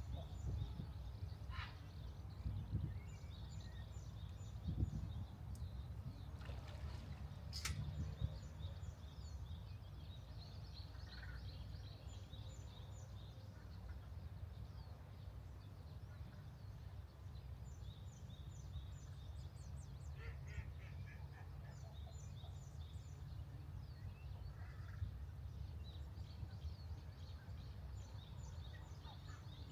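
Birds calling around a pond, with runs of short, rapid high chirps repeating every second or two, over a steady low rumble.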